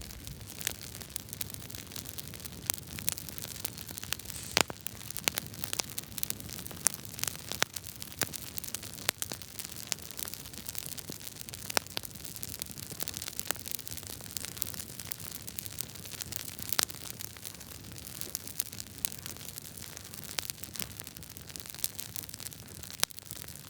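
Wood fire crackling in a fireplace: many sharp, irregular pops and snaps from burning logs over a steady hiss.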